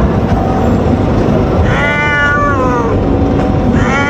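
A cat meowing: one drawn-out meow falling in pitch about two seconds in, and another starting near the end, over a steady low rumbling background noise.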